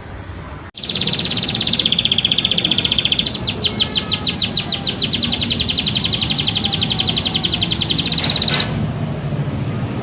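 A songbird singing a long, fast trill of rapidly repeated high notes, starting about a second in. About three seconds in the trill turns louder and more distinctly pulsed, then it breaks off near the end.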